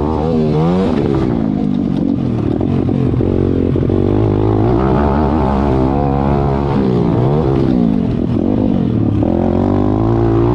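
Small motorcycle engines, pit bikes, revving up and down over and over as they ride, the pitch climbing and dropping every second or two over a steady low engine hum.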